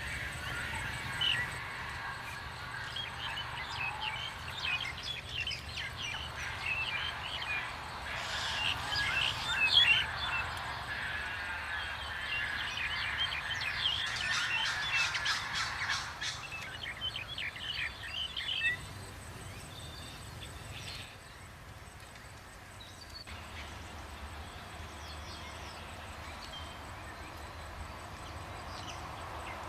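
Many wild birds calling at once, a dense mix of short chirps and harsher calls that thins out about two-thirds of the way through and picks up again near the end.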